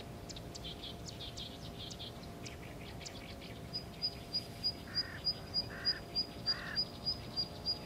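Wild birds calling: quick high chirps in the first two seconds, then a high pip repeated steadily about three times a second from about four seconds in, with three short harsher calls about five to seven seconds in.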